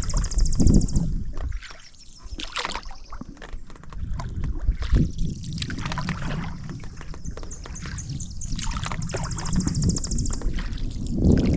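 Canoe paddle strokes in creek water: irregular splashes and dripping as the blade dips and lifts, rising and falling with each stroke.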